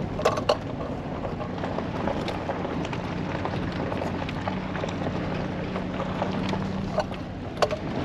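Full-size pickup truck climbing a steep dirt road in four-wheel drive: a steady engine drone under rough tyre-on-dirt noise, with sharp knocks and rattles a few times, the strongest just after the start and a little before the end.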